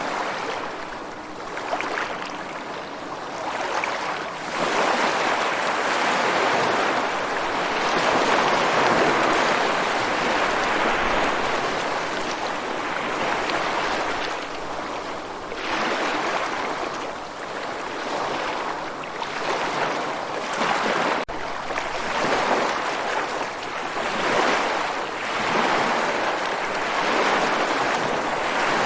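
Ocean surf: waves breaking and washing ashore, swelling and fading every few seconds.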